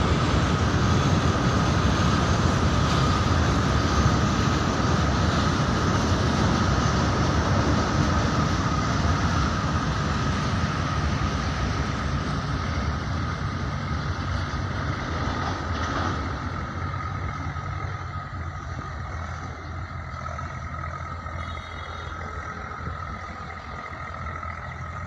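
Long freight train of covered wagons rolling past on the rails, a dense rumble and clatter with a steady high whine running through it. The sound fades gradually over the second half as the end of the train passes and it moves away.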